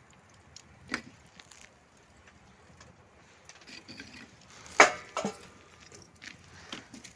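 A few separate sharp wooden knocks and clunks, as of wood being handled and set down. The loudest is a double knock about five seconds in.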